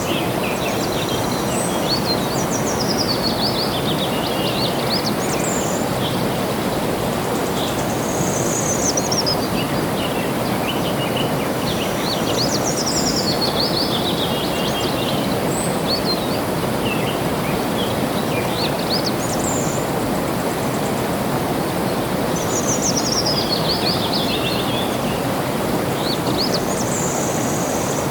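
Steady rush of flowing water, with a songbird singing over it. The bird repeats short phrases of quick chirps that slide downward in pitch, one every few seconds.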